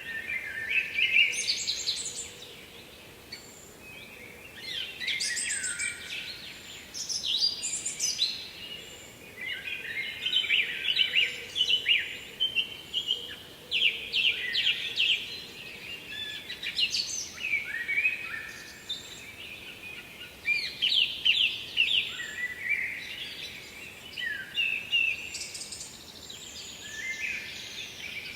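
Songbirds singing: a run of song phrases, each a second or two long and made of quick notes that fall in pitch, repeating every few seconds over a faint steady background hiss.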